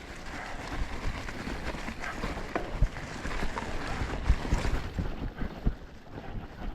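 Full-suspension mountain bike rolling over dirt singletrack: running tyre noise with irregular knocks and rattles over bumps, and wind buffeting the microphone.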